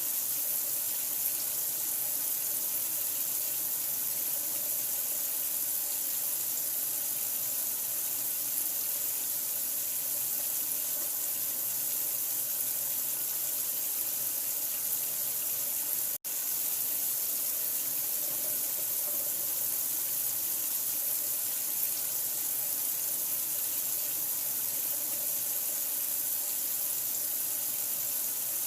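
Running water, a steady even rush like a tap left running, with one split-second break about sixteen seconds in.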